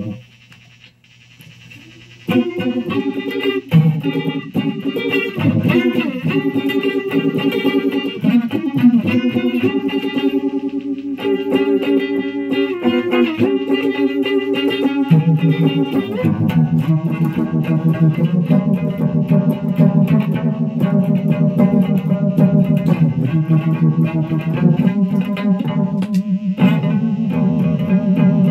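Electric guitar played through effects pedals with some distortion. After a short pause it plays single-note phrases, then settles into a low, repeating riff about halfway through.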